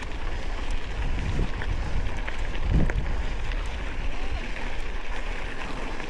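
A vehicle on the move: a steady low rumble with wind buffeting the microphone, a few light rattles, and one heavier thump a little under three seconds in.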